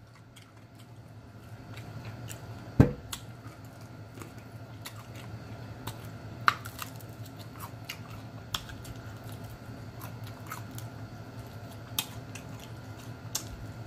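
Close-miked chewing and lip smacking on crispy fried food, with sharp wet mouth clicks scattered throughout. A single louder knock comes about three seconds in.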